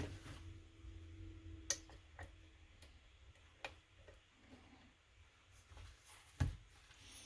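Lock pick and tension wrench working the pins of a lock cylinder: a handful of faint, scattered small metallic clicks.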